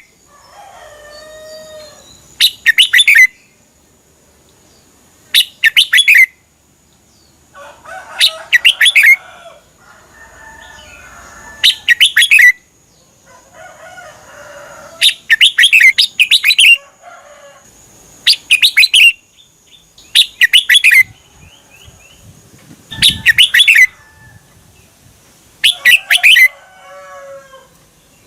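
Red-whiskered bulbul singing: short, loud, bright phrases of fast fluttering notes, repeated every two to three seconds, with softer, lower warbling between them.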